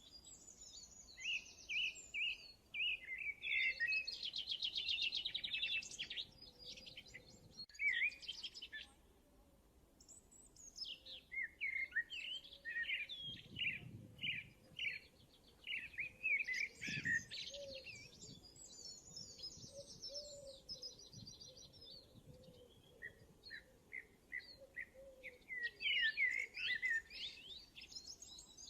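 Small birds chirping and singing in quick, varied phrases and trills, with brief pauses between bursts.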